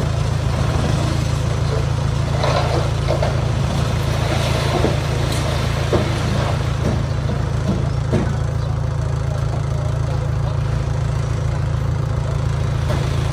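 Heavy diesel engine of construction equipment running steadily, with a few short clanks.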